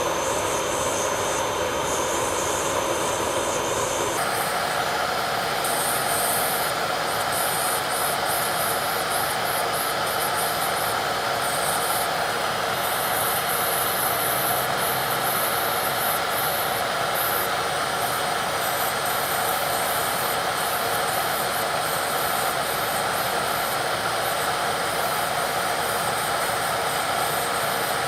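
Electric nail drill (e-file) running steadily with its bit working against a nail, the sound shifting in tone about four seconds in.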